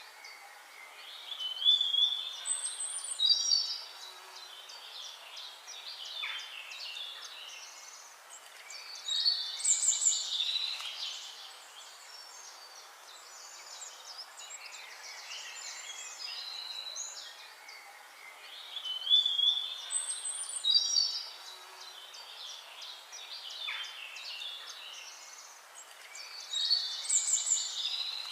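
Songbirds chirping and trilling in clusters of high calls every few seconds over a faint steady hiss. The same run of calls comes round again about every 18 seconds, as in a looped recording.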